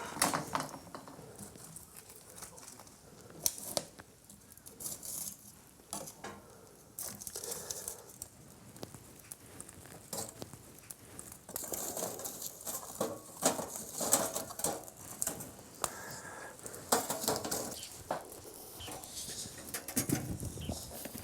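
Split firewood knocking and clattering as the pieces are handled and stacked, in irregular knocks with rustling between them.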